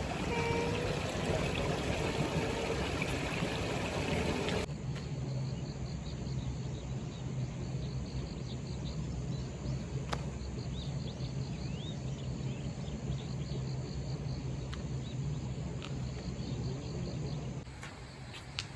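Outdoor ambience: a steady rush of running water for the first few seconds, then after an abrupt cut, insects chirping faintly over a low steady hum.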